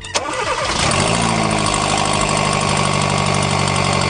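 Hyundai New Tucson engine starting about at the start, its pitch settling down within the first second, then idling steadily with a strong, deep noise. The mechanics trace this to a crack in the exhaust manifold.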